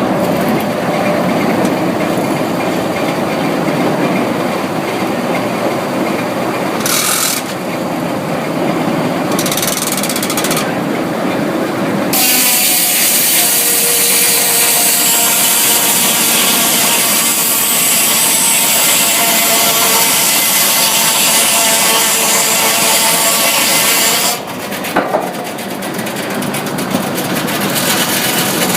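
Sawmill saw running, with a stretch of about twelve seconds in the middle where it is cutting through a log, louder and hissier during the cut. A brief knock comes just after the cut ends.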